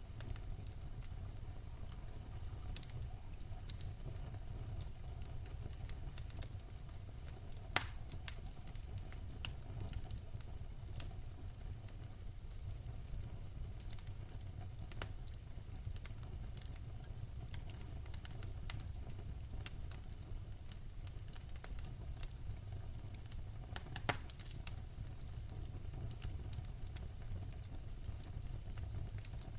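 Wood fire burning in a fireplace: a steady low rumble of the flames with scattered small crackles, and a couple of louder sharp pops about 8 and 24 seconds in.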